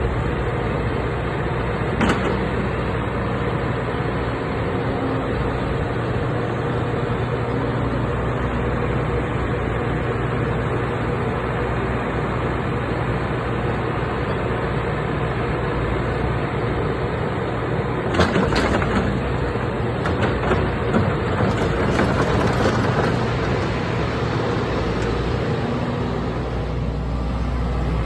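JCB JS130LC tracked excavator's diesel engine running steadily. There is a single sharp knock about two seconds in, and a run of sharp knocks and rattles about two-thirds of the way through.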